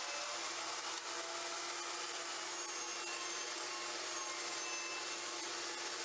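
Table saw and 1-horsepower dust collector running together, started through the collector's auto-start circuit: a steady motor hum over a constant rush of air.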